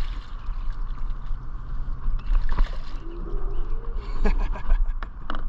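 Wind buffeting the microphone in a gusty low rumble over a steady faint hum, out on the water in a boat, with a few short clicks or knocks.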